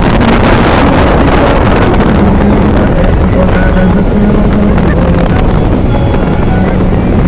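A motor running steadily with a low hum, under heavy wind buffeting on the microphone.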